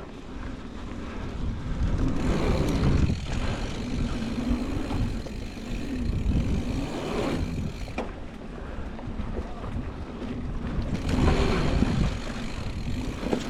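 Mountain bike riding down a dirt trail: wind rushing over the camera microphone and tyres rolling over the ground, the noise swelling and easing with speed, with a few sharp knocks from the bike going over bumps.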